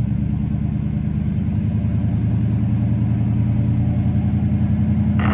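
Pickup truck engine held at steady revs under load as the stuck two-wheel-drive truck tries to drive out on traction boards, its drive wheels sliding without grip.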